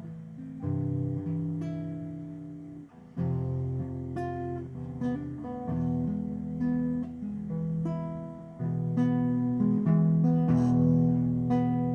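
Acoustic guitar playing chords: strummed and picked notes that ring and fade, the chord changing about every second.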